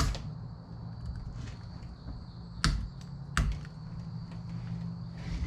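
A few sharp clicks and knocks of small steering-wheel parts being handled: one at the start and two about three seconds in. A steady low hum and a faint high whine run underneath.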